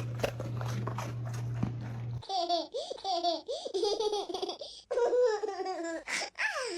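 A steady low hum with scattered clicks, then, about two seconds in, a baby laughing in quick repeated rising-and-falling bursts that break off a few times.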